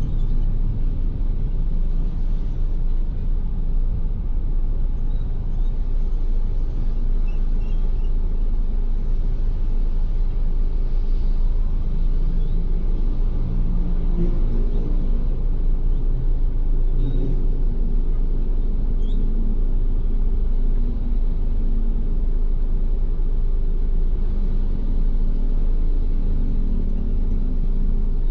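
Steady low rumble of a Ford Everest SUV's engine and tyres while driving at an even pace, with no sudden changes.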